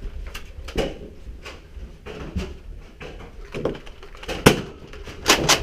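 A string of sharp knocks and clicks at irregular intervals, the loudest about four and a half seconds in, over a low rumble.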